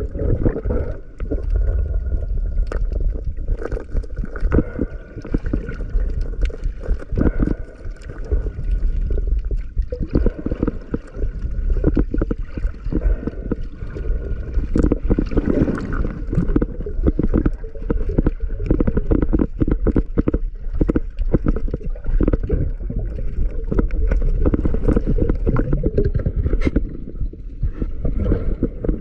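Muffled sea-water noise around a camera in the sea: a steady low rumble with gurgling and many small knocks and splashes throughout.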